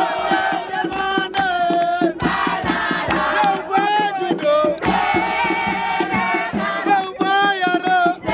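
A group of voices chanting and singing together over a quick, steady run of sharp percussive strokes.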